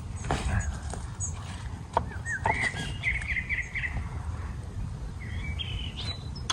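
Small birds chirping: a quick run of short chirps in the middle and a few more near the end, over a low steady rumble, with a few sharp clicks.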